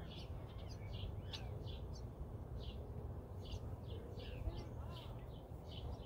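Purple martins calling around their nest house: a steady run of short chirps, two or three a second, over a steady low rumble.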